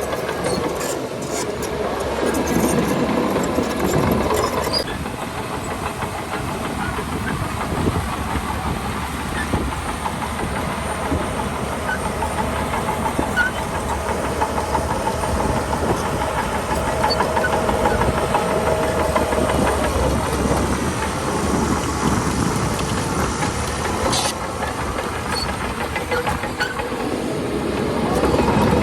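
Diesel engine of a Shantui DH17C2 crawler bulldozer running steadily, with a metallic clatter from its steel tracks.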